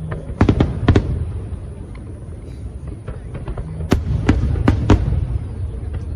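Aerial fireworks bursting: a quick cluster of sharp bangs about half a second to a second in, and another run of bangs about four to five seconds in, over a continuous low rumble of further explosions.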